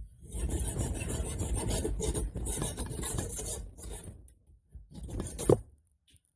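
Hacksaw cutting by hand: a run of fast scraping strokes for about four seconds, then a short second burst that ends in one sharper, louder stroke.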